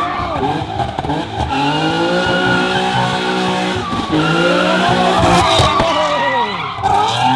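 A car spinning donuts, its engine revving up and down several times while the tyres squeal.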